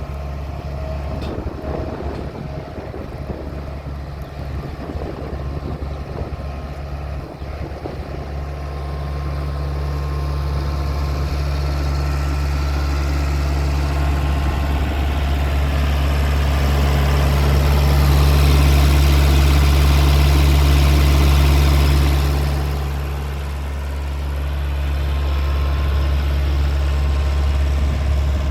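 Bobcat 743 skid steer engine running steadily. It grows louder from about a third of the way in, dips briefly about two-thirds through, then comes back up.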